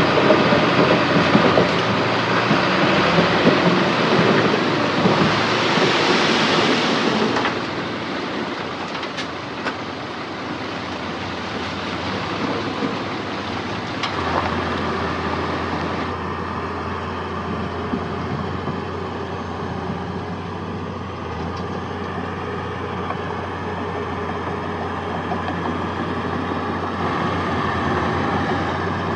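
Heavy diesel earthmoving machinery working. A loud, dense, clattering stretch for the first seven seconds or so stops suddenly, then engines run more steadily with a low hum from about halfway.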